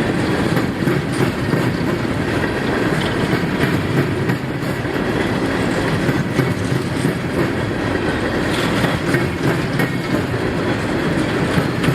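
Norfolk Southern ballast train's cars rolling past steadily, their wheels clicking over the rail joints.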